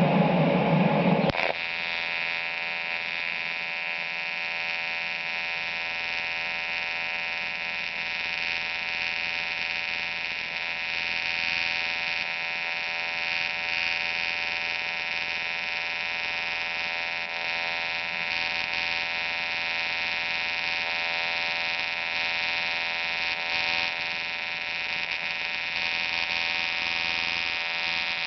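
AC TIG welding arc on aluminium, buzzing steadily. A louder rushing noise fills the first second or so before the steady buzz settles in.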